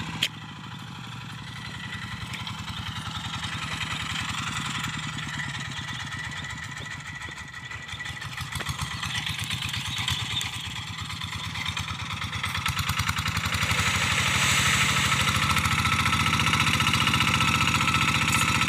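Hand tractor's single-cylinder Kubota diesel engine running steadily while pulling a moldboard plough through loose soil, getting louder about three-quarters of the way through.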